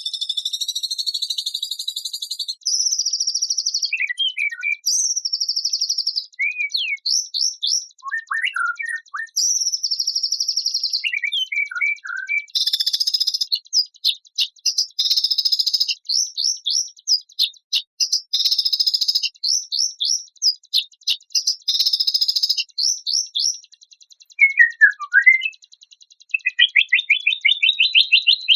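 Songbird song: high, buzzy rapid trills held for about a second at a time, alternating with short sharp chirps and whistled notes, then a fast run of chirps near the end.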